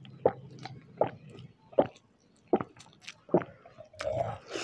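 Close-up eating sounds of chicken curry and rice eaten by hand: wet chewing with sharp mouth clicks and lip smacks, a loud one about every three quarters of a second.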